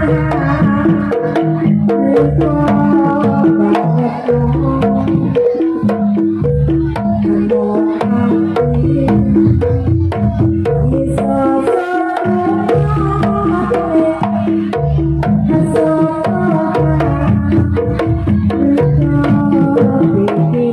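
Traditional percussion-ensemble music: quick runs of short pitched notes over steady drumming and sharp clicking strokes, with no break.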